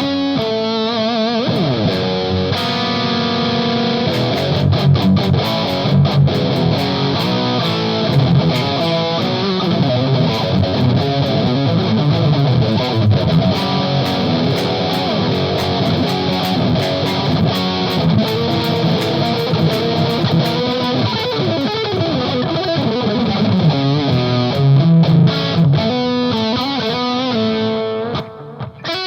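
Electric guitar played through an EarthQuaker Devices Palisades overdrive pedal on its Gain B channel with the boost engaged, giving a thick, dirty, heavily distorted tone. It plays continuously, with a brief drop in level near the end.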